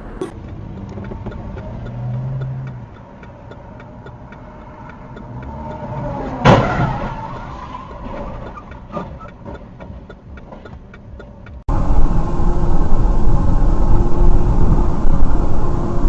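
Dash-cam recording of a car driving, with steady road noise and one loud bang of a vehicle collision about six and a half seconds in. A few light clicks follow. Near the end the sound cuts abruptly to a much louder, steady rumble of wind and road noise.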